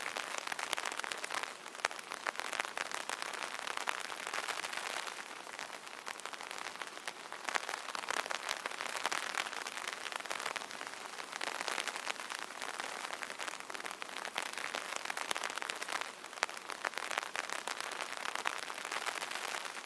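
Light rain hitting the canopy of an open umbrella: a dense patter of drops that swells and eases every few seconds.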